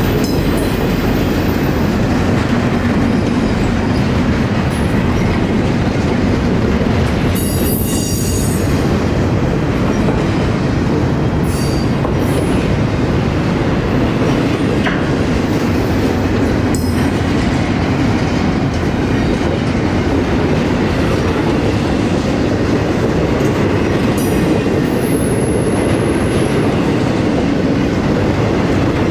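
A train running past close by: a loud, steady rumble of wheels on rail, with a few sharp clicks.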